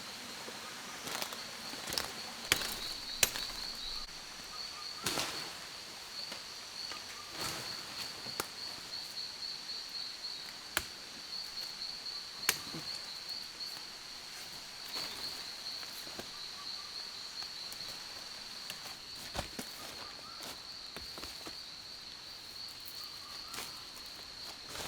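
Rainforest insects keeping up a steady high-pitched chirring drone, with scattered sharp clicks and knocks at irregular intervals.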